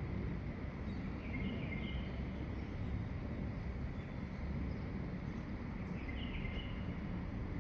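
Songbirds chirping at dawn: a short burst of chirps about a second in and another near six seconds, over a steady low background rumble.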